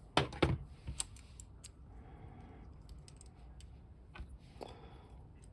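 A few sharp clicks and taps of small hard plastic action-figure parts being handled, three close together in the first second and a fainter one near the end.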